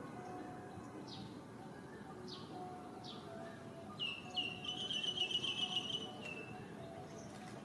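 High-pitched animal calls: a short falling whistle-like call repeated about once a second, with a louder, longer high warbling call lasting about two seconds past the middle.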